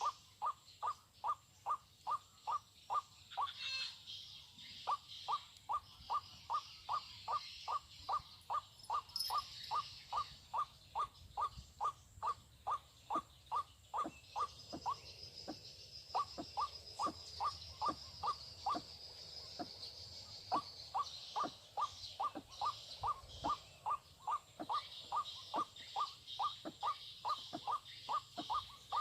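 White-breasted waterhen (ruak-ruak) calling: a long, monotonous series of short notes, about two or three a second, broken by a few brief pauses. Insects chirr steadily behind it.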